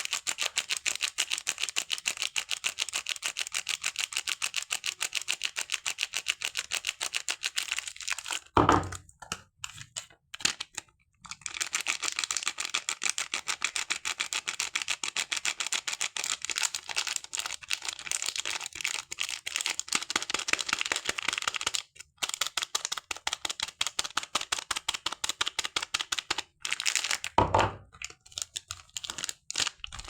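Close-miked, rapid crackling as soap and its wrapping are handled, in long runs of many small clicks with short pauses. Two louder thumps come about nine seconds in and near the end.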